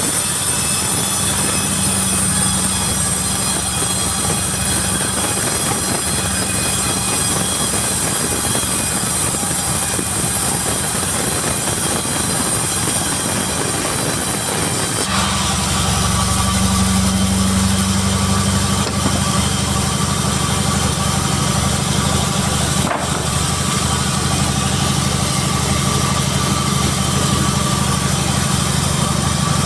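Sawmill machinery running steadily: a motor's hum with a high hiss over it. The sound shifts abruptly about halfway through.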